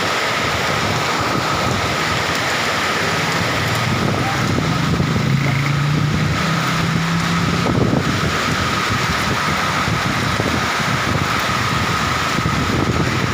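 Heavy rain pouring down steadily on a street. A motor vehicle's engine hums past, rising and fading between about four and eight seconds in.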